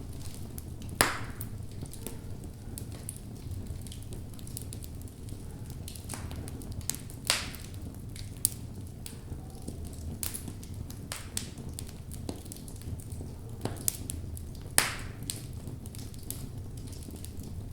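Wood fire burning in a fireplace: a steady low rumble of the flames with irregular crackles and sharp pops from the burning logs, the loudest pops about a second in, near the middle and about three quarters of the way through.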